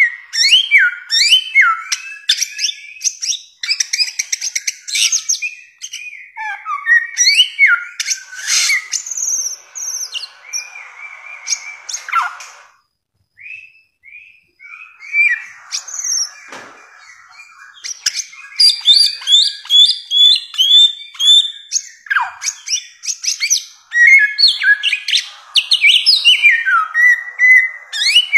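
Bare-throated whistler (samyong) singing a fast, varied run of short whistled notes and sliding downslurs, with a longer held whistle before a brief pause about halfway through, then the song picks up again.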